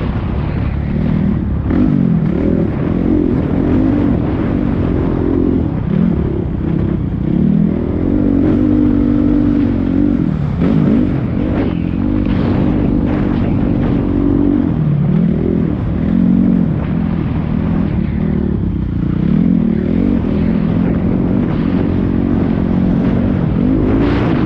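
450cc four-stroke motocross bike engine being ridden hard: its pitch climbs and drops again and again every second or two as the throttle is opened and chopped through the gears.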